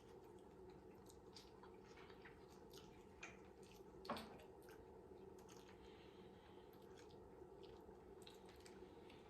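Faint chewing and wet mouth sounds of a person eating, with scattered small clicks and one sharper click about four seconds in.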